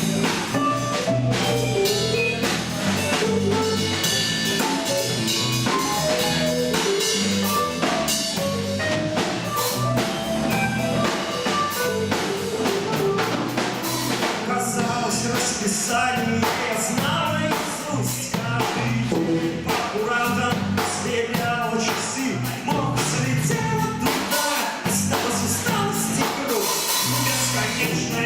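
Rock music with a drum kit and singing, a steady beat throughout.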